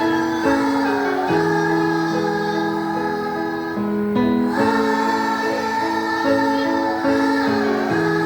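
A children's choir singing a song over sustained keyboard chords.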